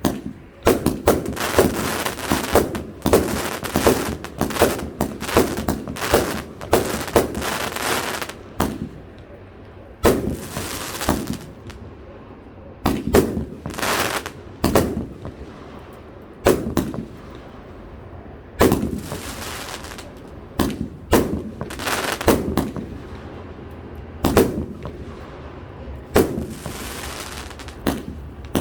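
A 259-shot consumer firework cake firing: rapid sharp bangs of launches and bursting shells, densest in the first eight seconds, then in spaced clusters with a few noisy stretches about a second long.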